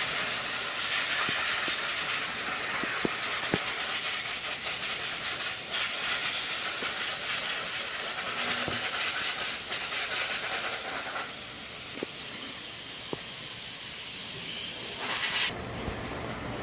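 A loud, steady hiss that cuts off abruptly near the end, leaving a quieter low hum, with a few faint clicks along the way.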